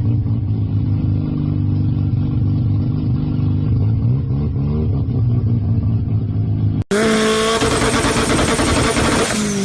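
Sports car engine and exhaust running at low revs with a deep, steady drone. About seven seconds in it cuts to another high-revving engine, louder, whose pitch falls near the end as it comes off the throttle.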